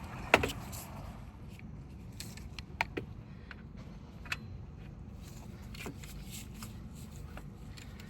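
Scattered metallic clicks and clinks of hand tools and parts being handled during engine reassembly, with a sharp knock about a third of a second in and a few lighter ones after, over a low steady hum.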